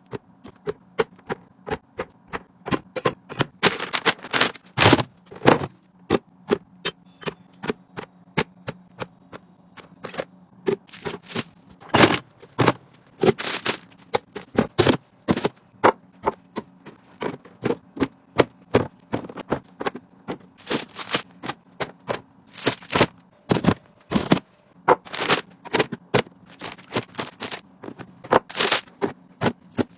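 Groceries being unpacked and put into the fridge: a continual run of small knocks, clicks and scrapes as packaging and containers are handled and set down, some much louder than others.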